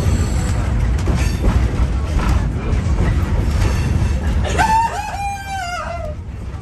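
Moving passenger train heard from inside the car: a steady low rumble with scattered clicks and knocks. About four and a half seconds in, a high, wavering cry lasting about a second and a half falls in pitch over the rumble.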